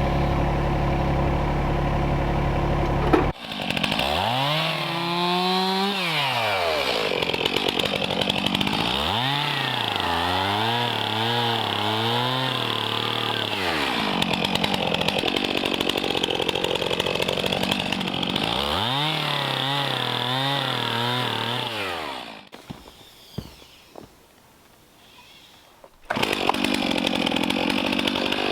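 A steady engine running for the first few seconds, then a Stihl MS 291 chainsaw revving up and down repeatedly as it cuts cedar logs, with a brief lull of a few seconds near the end before it revs again.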